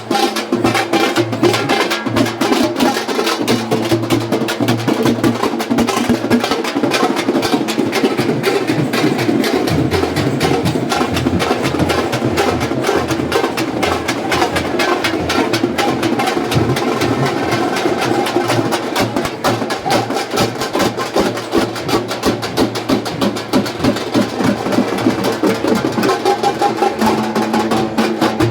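Loud music driven by fast, dense drumming, with steady held tones under it; the bass deepens about ten seconds in.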